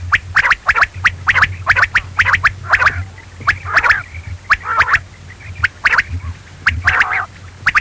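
Quail calling over and over in quick clusters of short, sharp chirping notes, several a second, over a steady low hum.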